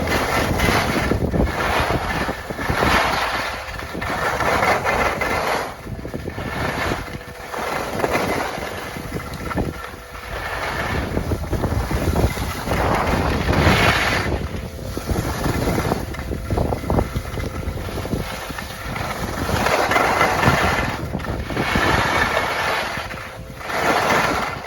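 Strong wind rushing over the microphone in loud gusts that swell and ease every few seconds.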